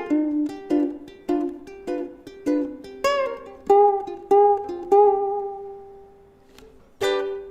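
Ukulele played with added effects: a melody of single plucked notes, then one note left ringing and fading for about two seconds before a strummed chord comes in near the end.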